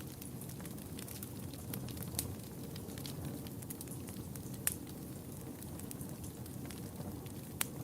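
Wood fire burning with a steady low rumble and scattered sharp crackles and pops, the loudest about halfway through and near the end.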